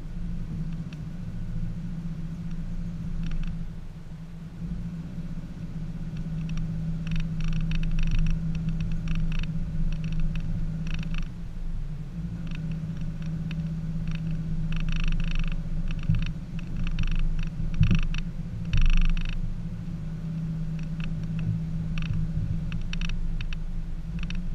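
A Subaru Forester's 2.5-litre flat-four engine running at low revs with a steady low hum as the car crawls over rough dirt trail. Bursts of rattling and clicking from the car come and go, with a few sharper knocks about two thirds of the way through.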